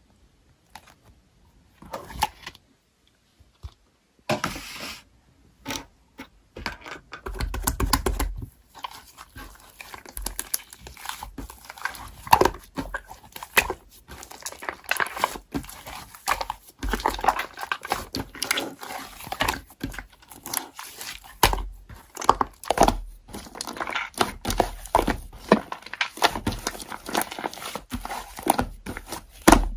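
Slime being squished and pressed by hand, giving dense crackling clicks and pops. It is sparse for the first few seconds and becomes nearly continuous after that.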